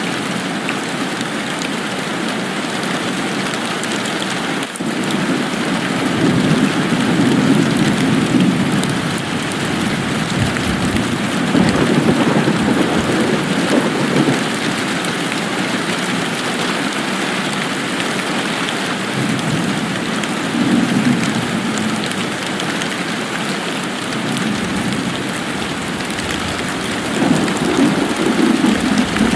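Steady rain falling. Its lower part swells louder for a few seconds four times: about 6 s in, about 12 s in, about 20 s in and near the end.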